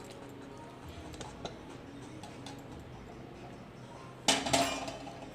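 Light taps of a kitchen utensil, then a louder clatter of a spoon against a cooking pot about four seconds in, as food is tipped into the pot.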